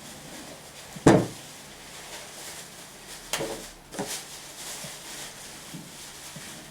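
Knocks from knife-sharpening gear being handled on a hard surface: one sharp, loud knock about a second in, then two lighter knocks a little past three and four seconds, with faint swishing strokes between.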